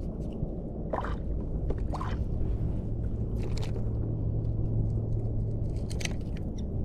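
Water sloshing and splashing against a fishing kayak on open water, over a steady low rumble, with short splashes about one, two and six seconds in.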